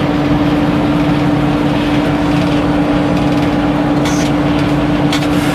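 Circular sawmill machinery running steadily at a constant speed, with a strong even hum over a rumbling drone. Two brief hissing sounds come near the end.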